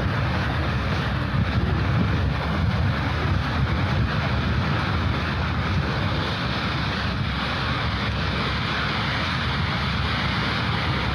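Wind buffeting the microphone in a continuous low rumble, over a steady rushing hiss.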